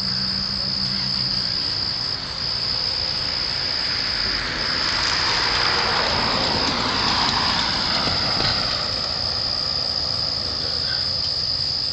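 A night chorus of insects, such as crickets, keeps up a steady high-pitched trill that dips briefly a few times. In the middle a rushing noise swells and fades.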